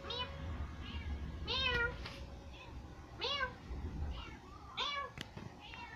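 Domestic cat meowing four times, short calls that rise and fall in pitch, about a second and a half apart. A sharp click about five seconds in.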